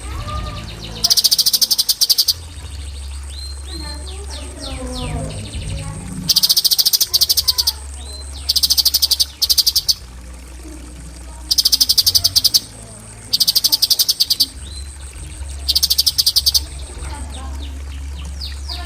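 Cucak cungkok bird singing its rapid-fire 'tembakan' phrases: about six dense, high, buzzing trills of about a second each, with short falling whistles in between, over a steady low hum.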